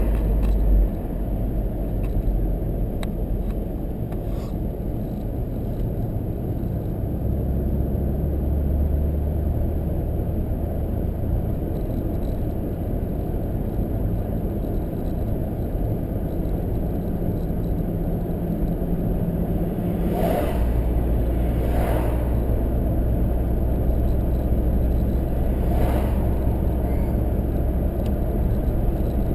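Car driving along a road, heard from inside the cabin: a steady low rumble of engine and tyres. The engine's pitch shifts a couple of times, and a few light knocks come in the second half.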